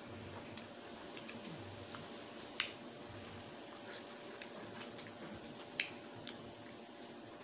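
Close-miked wet mouth sounds of eating juicy orange wedges off the peel: soft squishes and sharp smacking clicks, three of them louder than the rest, over a faint steady hum.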